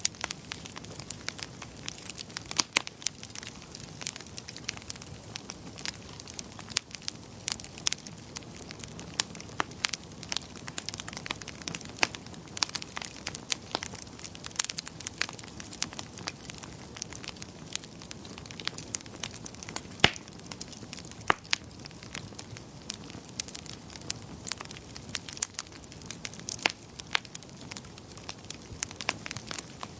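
Wood fire crackling in a fireplace: irregular sharp pops and snaps, a few a second, over a steady soft hiss of burning. The loudest pop comes about two-thirds of the way through.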